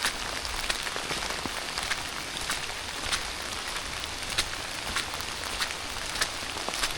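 Steady rain falling, with a continuous hiss and many irregular sharp ticks of individual drops striking close by.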